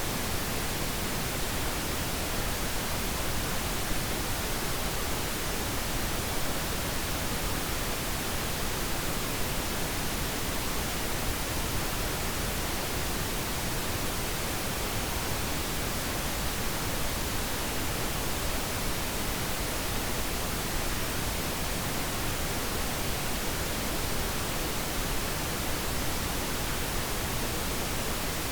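Steady pink noise: an even, unchanging hiss spread across all pitches, used as a sleep sound for babies.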